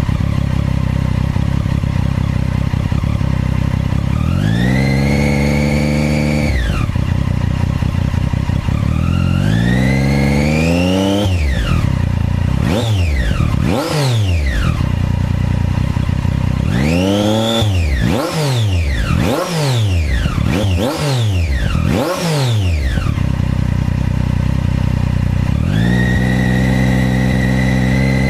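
Triumph Daytona 675R's inline-three engine, on the stock exhaust with an Arrow slip-on, idling and being revved while stationary. Two longer revs held briefly come first, then a run of quick throttle blips, and near the end the engine is held at a steady raised speed.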